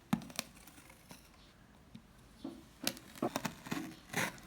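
Packaging being handled: rustling and crinkling with a few tearing sounds and several sharp clicks and taps, busiest in the second half.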